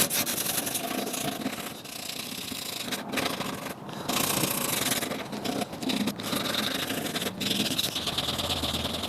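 Sheet of coarse 40-grit sandpaper rubbed by hand over oak, stripping the old varnish: scratchy sanding strokes with a few short breaks.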